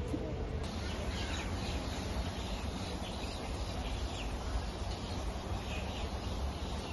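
Outdoor ambience: a steady background noise with faint, scattered bird chirps.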